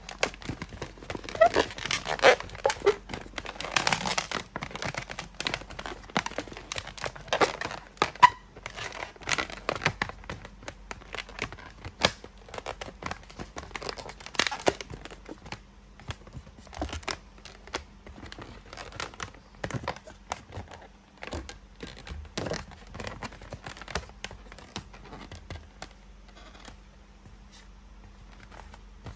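Latex modelling balloon being twisted and handled: irregular rubbery rubbing and crackling with a few short squeaks. The handling is busiest in the first half and thins out after about fifteen seconds.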